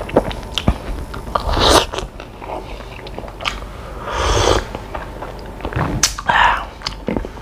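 Close-up chewing and crunching of crispy fried pempek (fish cake), with many small sharp mouth clicks. About four seconds in comes a short slurp of cuko sauce sipped from a plastic cup.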